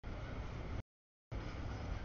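Double-stack container freight train rolling past, a steady rumble heavy in the low end. The audio cuts out to dead silence about a second in and returns half a second later, a dropout in the camera's audio feed.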